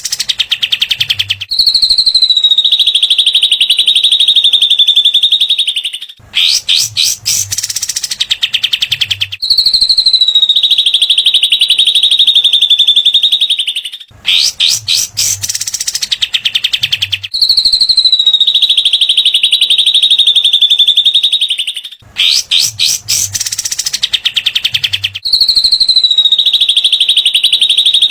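Songbird masteran recording of cililin and kapas tembak (katem): a short burst of rapid chattering notes followed by a long, high, buzzing trill (the 'besetan') that dips slightly at its start and then holds steady, the pattern repeating about every eight seconds, looped.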